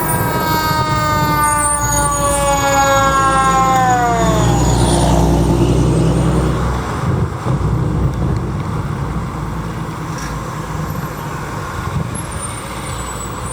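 A fire truck's siren winding down: one pitched wail with many overtones, sliding slowly lower and then dropping away steeply about four and a half seconds in, in the manner of a mechanical siren coasting down. Under it the truck's engine rumbles on after the siren dies.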